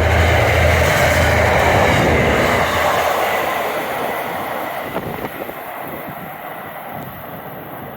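A train running past on the rails and pulling away, its low rumble and wheel noise fading steadily.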